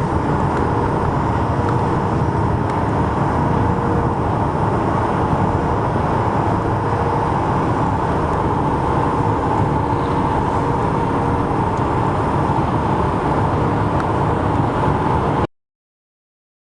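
Steady highway traffic noise, a continuous rumble with a faint steady hum, that cuts off abruptly about a second before the end.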